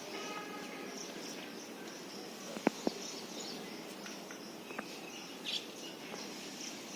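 Outdoor ambience: insects chirping steadily in a high pulsing band, with a few brief bird chirps and two sharp clicks near the middle.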